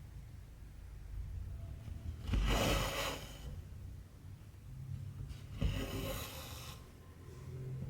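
Cotton embroidery thread pulled through cross-stitch fabric twice, each a drawn-out swish of about a second, a few seconds apart.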